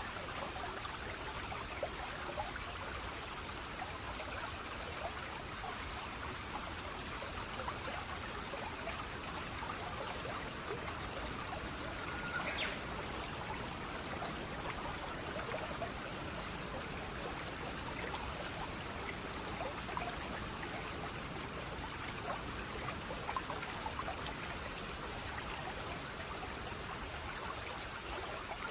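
Gently running water, a steady trickling and babbling flow with many small droplet splashes. A single brief high chirp sounds about twelve seconds in.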